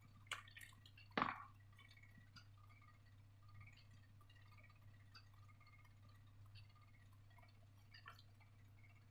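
Near silence over a low steady hum. A few faint clicks and one brief, slightly louder crackle about a second in, from slime and its containers being handled.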